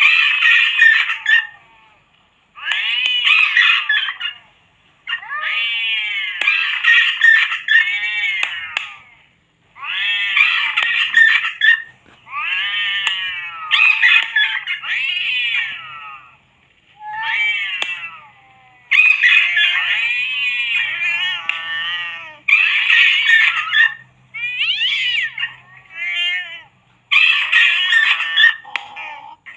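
Cats yowling and screeching in a series of loud calls, each one to two seconds long, with wavering pitch and short gaps between them.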